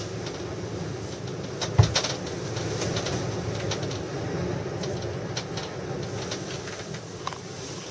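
Strong wind blowing steadily, with scattered clicks and rattles and one sharp knock about two seconds in.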